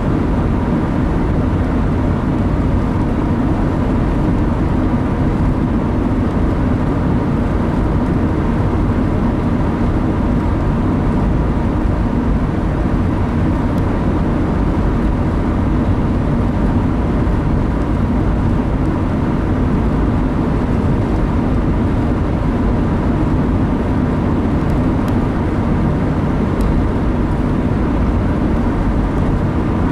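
Steady road noise of a car being driven at speed, heard from inside the cabin: a low, even drone of tyres and engine.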